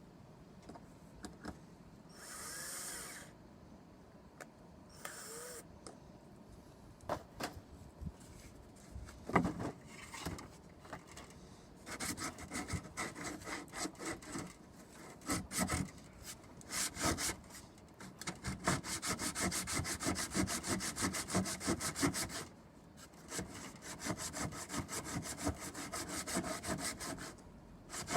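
Hand tool working wood with rapid back-and-forth strokes, sawing or rasping. The first part holds a few scattered knocks and two short hissing bursts. Steady stroking starts about twelve seconds in and pauses briefly once before carrying on.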